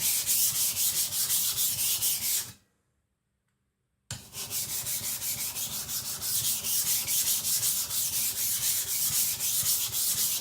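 Steel blade of a Victorinox Chinese cleaver being ground back and forth on a wet whetstone during thinning, in quick even strokes, about three or four a second. It breaks off about two and a half seconds in and starts again a second and a half later.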